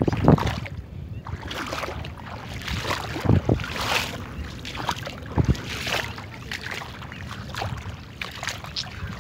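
Water sloshing and splashing irregularly, with a few louder splashes.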